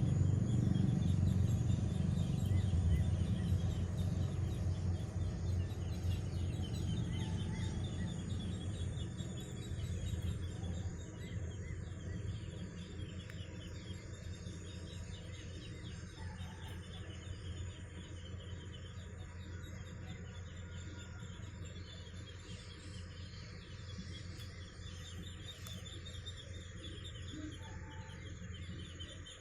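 Low drone of a tugboat's engine, slowly fading as the boat draws away, with insects and birds chirping steadily throughout.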